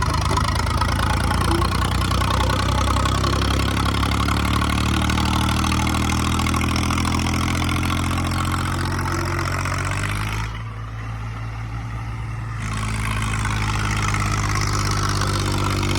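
Tractor diesel engines running steadily at a low, even speed. About ten seconds in, the sound goes muffled for a couple of seconds while the low engine note carries on.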